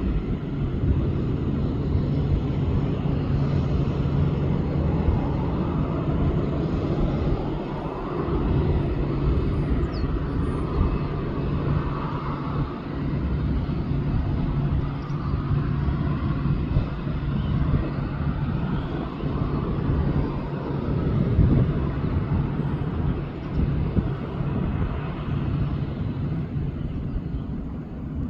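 Boeing 737-700 jet engines running: a steady low rumble with a constant low hum and a loudness that wavers but neither rises nor falls.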